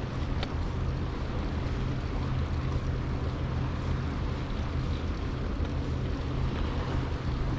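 Steady wind rumble on the microphone of a moving bicycle, with the even hiss of riding underneath.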